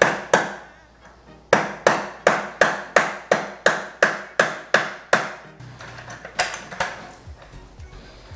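A hammer striking a part to drive it into a hole in a plastic wheeled wash bucket. There are a couple of blows at the start, a steady run of about eleven at roughly three a second, then two more near the end.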